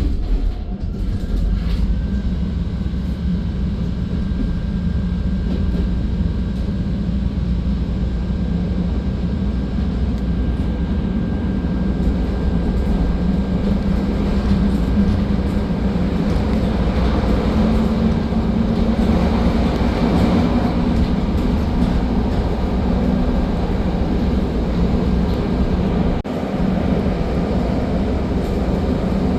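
Chicago 'L' rapid-transit train running on the rails: a steady rumble with a constant low hum, swelling slightly about two-thirds of the way through.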